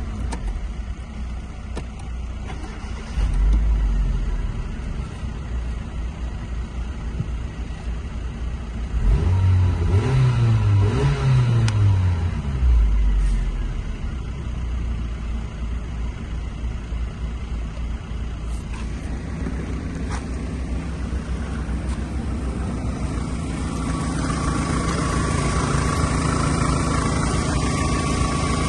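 Hyundai Coupe's 1.6-litre G4ED inline-four engine running for a test. It gets a short blip of throttle a few seconds in, then three quick revs that rise and fall around the middle, then settles back to idle. Near the end the level rises a little and a steady whine joins in.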